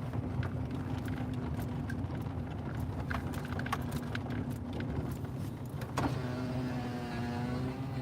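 Car running, heard from inside the cabin as a steady low rumble and hum, with scattered light clicks. About six seconds in, a steady tone with many overtones starts and holds.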